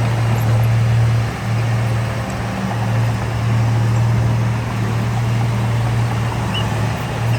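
Heavy diesel earthmoving machinery running under load: a steady low engine drone that dips briefly a few times as the load changes.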